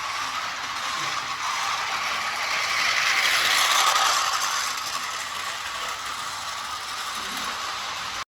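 Small electric motor and gears of a battery-powered Märklin My World toy train running, a steady whirring rattle that swells louder around the middle and then eases, cut off abruptly near the end.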